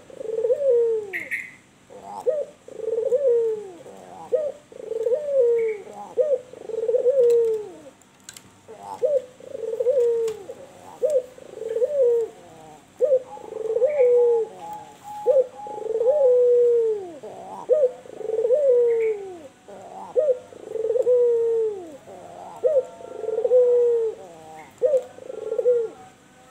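Albino Barbary dove (the domestic ringneck dove, 'puter') cooing in a long, steady run of short, low coos, each falling in pitch, about one a second. A few faint higher chirps come in now and then.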